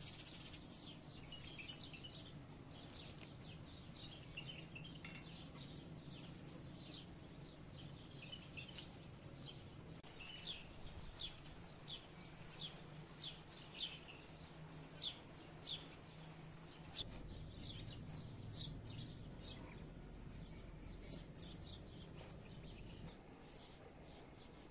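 Small birds chirping outdoors: a run of short, high chirps, coming roughly every half second to a second through the middle, over a faint low hum.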